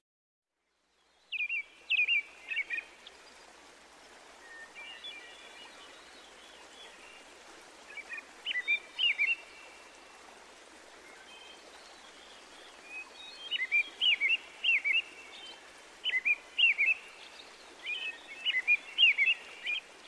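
Small birds singing in short, quick chirping phrases over a steady soft background hiss, starting about a second in after a moment of silence.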